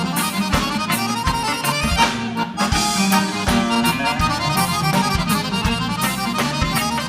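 Live gaúcho dance band playing an instrumental passage: accordion carrying the melody over bass and a steady drum beat.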